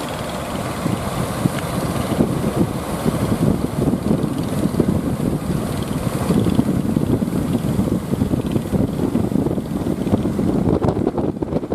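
Strong wind buffeting the microphone, with a fishing boat's engine running underneath.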